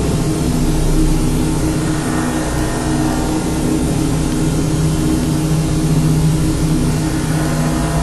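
A steady, loud low drone with several held pitches, an engine-like mechanical hum of unidentified source.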